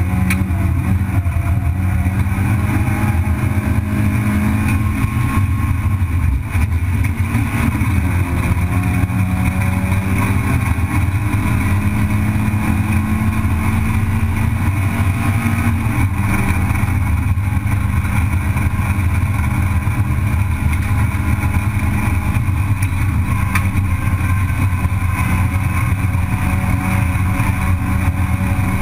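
Racing car engine heard from inside the cabin, running hard at a near-steady high pitch for long stretches, with its tone dropping and changing briefly about eight seconds in and again around sixteen seconds in, over constant road and wind noise.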